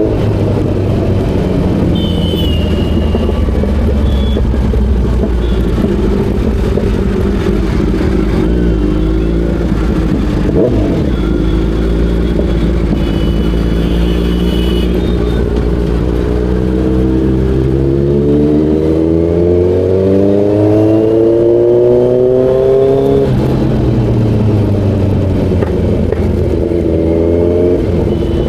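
Kawasaki Z900 inline-four engine heard while riding. It runs steadily, then revs up, climbing in pitch under acceleration for several seconds near the end. The pitch drops sharply at an upshift and climbs again.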